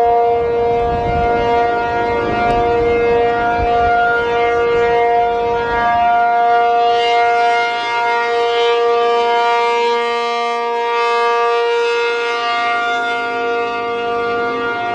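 P-50 civil defense siren sounding a steady two-note chord whose overtones swell and fade as it rotates. It carries a purr, which the uploader attributes to the fiberglass flexing under the siren's sound pressure, stronger when the fiberglass is cold and brittle. A rough low rumble underlies the first six seconds.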